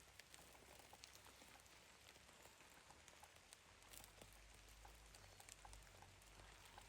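Near silence: a faint soft hiss with many small, scattered ticks, like light pattering.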